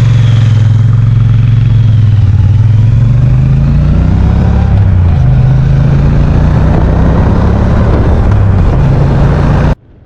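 Motorcycle engine running loud, its pitch rising and falling several times as it revs and pulls. It cuts off abruptly near the end.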